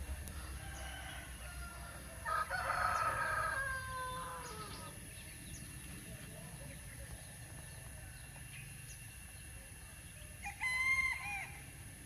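A rooster crowing: one long crow about two seconds in that drops in pitch at its end, then a shorter crow near the end.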